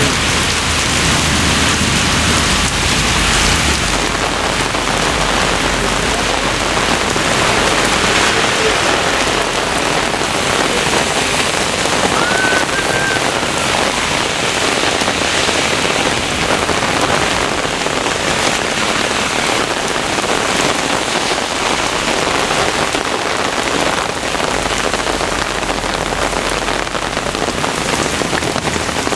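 Heavy thunderstorm rain pouring down steadily, a dense even hiss.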